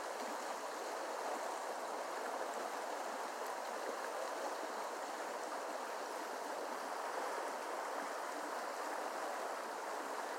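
Creek water running over rocks: a steady rushing burble with no change throughout.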